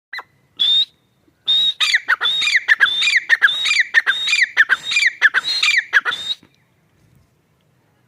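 Francolin (teetar) calling: a couple of short high whistles, then a fast run of repeated high phrases of falling notes, about two a second, that stops a little over six seconds in.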